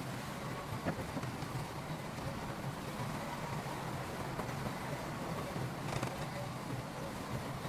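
Diesel engine of heavy earthmoving machinery running at a steady pitch, with a couple of faint clicks or knocks.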